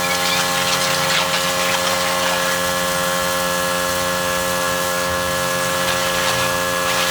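Pressure washer running steadily, its motor and pump holding a constant pitch under the hiss of the water spray.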